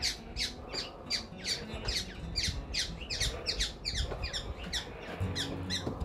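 A bird squawking rapidly: a steady run of harsh calls, each sliding down in pitch, about four a second.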